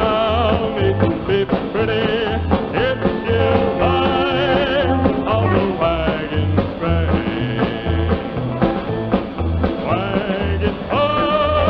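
Country band playing an instrumental passage of a western theme song, with a steady bass beat under a wavering melody.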